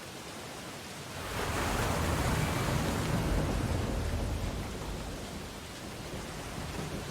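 Ocean waves on a beach: a steady surf hiss, then a wave breaking about a second in, swelling louder and washing out again over a few seconds.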